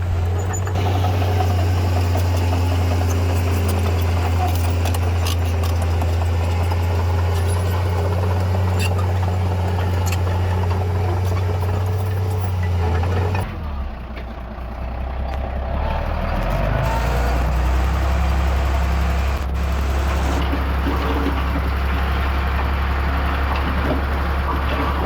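Diesel engine of heavy earthmoving equipment running steadily, with scattered clanks over it in the first half. About halfway through the engine note falls away briefly, then carries on at a lower pitch.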